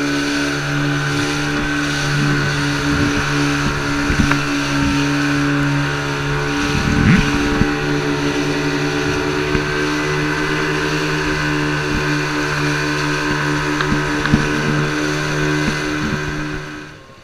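Boat outboard motor running at a steady speed, with a constant drone under wind and water noise and a few light knocks; it cuts off abruptly near the end.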